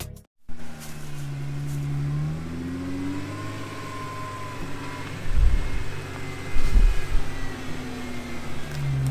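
Jeep engine running at low speed, its pitch rising and falling as it is revved, with a couple of heavy low thumps about five and a half and seven seconds in.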